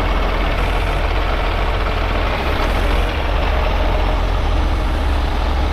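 Heavy tow truck's diesel engine running steadily with a deep, constant rumble.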